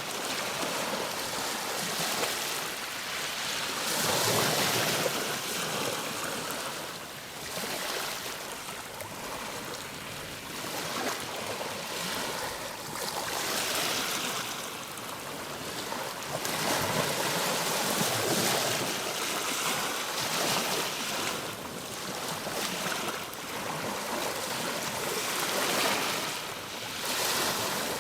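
Ocean waves breaking and washing on a shore: a steady hiss of surf that swells and eases every few seconds.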